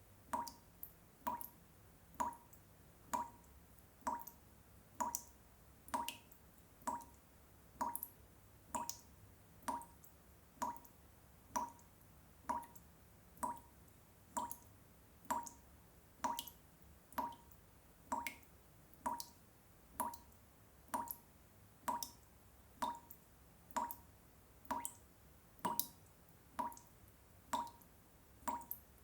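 Water drops falling one at a time at a steady pace, a little over one drop a second, each a short ringing plink, looped as a repetitive sleep sound for babies.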